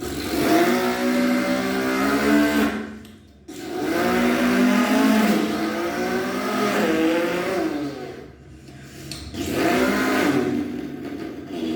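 A man's mouth imitation of an Audi RS5 engine revving: three vocal revs, the pitch sliding up and down, with short breaks about three seconds in and about eight and a half seconds in.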